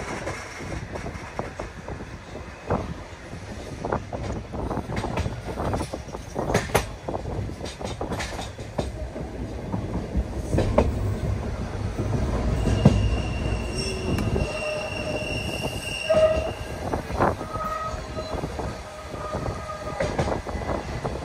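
Berner Oberland Bahn train running on the rails, with irregular clicks and knocks of the wheels and a low rumble. Its wheels squeal in steady high tones for a few seconds past the middle.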